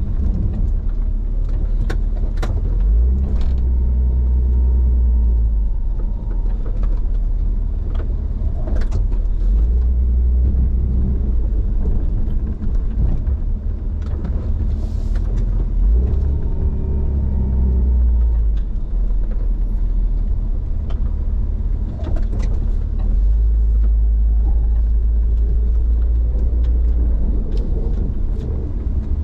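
Snow-plowing vehicle running with a continuous low rumble that swells in several stretches of a few seconds, with scattered clicks and knocks.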